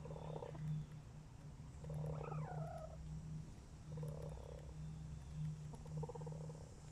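Chickens purring: short low rolling trills about every two seconds, one of them about two seconds in turning into a call that slides downward. The keeper takes this purring as the hens' complaint about cicada noise.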